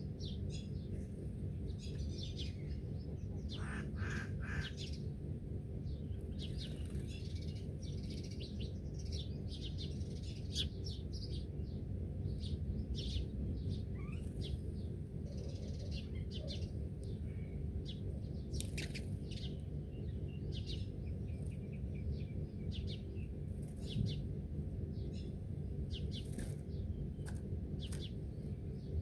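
Several birds chirping and calling in quick, overlapping short notes, over a steady low background rumble.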